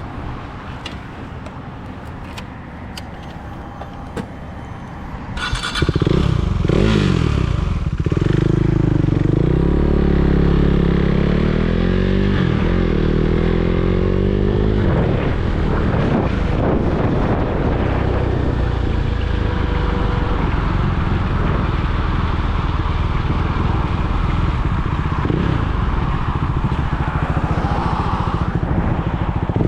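Motorcycle engine running quietly with a few clicks, then about five seconds in pulling away: it revs up and drops back through several gear changes and settles into steady cruising with wind noise on the microphone.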